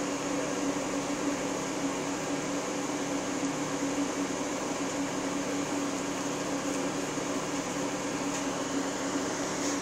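Steady hum and whir of a running motor-driven household appliance, with a low drone and a hiss that hold level without change.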